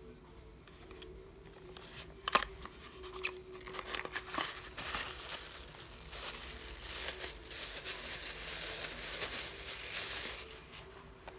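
Packaging of a cable being opened and handled: a sharp click about two seconds in, then several seconds of crinkling and rustling that stops near the end.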